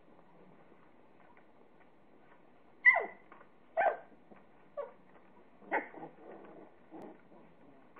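Young puppies yipping: four short, high yips about a second apart, starting about three seconds in, each dropping in pitch, then softer whimpering.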